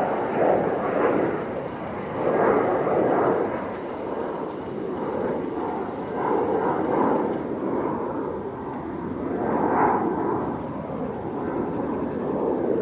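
Jet airliner engines rumbling: a rough, uneven roar that swells and fades several times.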